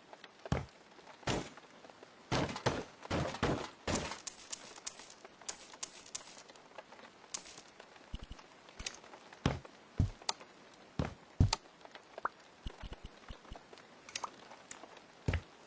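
Irregular knocks and taps of hands-on renovation work, with a run of bright clinks a few seconds in.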